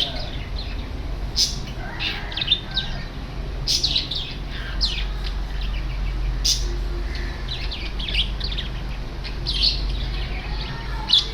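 Lovebirds chirping: many short, sharp chirps and squeaks, some in quick clusters, over a steady low hum.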